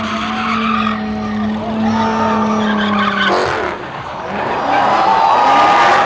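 A car engine held at steady high revs while its tires squeal through a burnout. About three seconds in the steady engine note breaks off, and a wavering tire squeal goes on, growing louder near the end.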